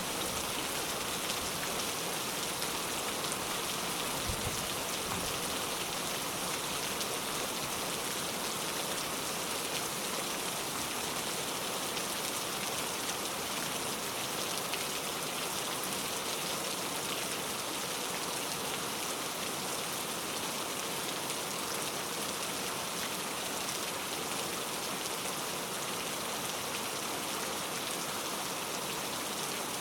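Steady rainfall, an even hiss of many drops hitting surfaces without letting up.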